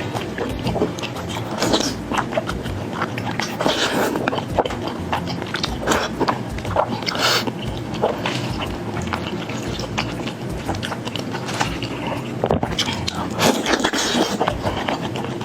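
A person chewing and biting into noodles close to the microphone: a steady run of wet, irregular mouth clicks and smacks.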